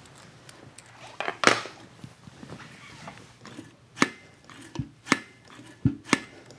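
Hand tools and metal parts being handled on the bench while fitting a carburetor: a cluster of knocks about a second and a half in, then single sharp clicks roughly once a second, with a couple of dull thuds between them.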